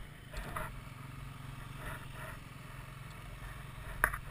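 Enduro dirt bike engine idling steadily, with one sharp click near the end.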